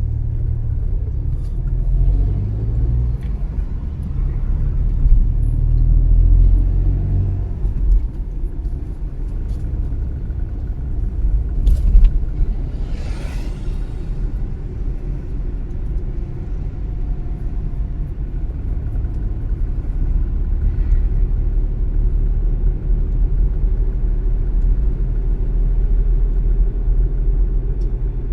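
Car driving on city streets: steady low rumble of engine and tyres on the road, with a brief hiss about halfway through.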